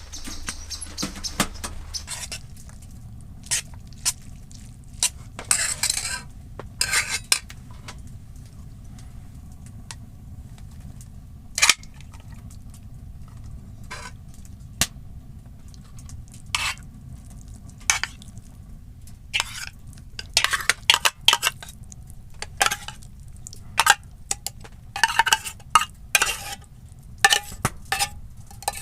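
Metal cookware and utensils clinking, knocking and scraping at irregular intervals, as in handling and stirring a pot, over a low steady rumble.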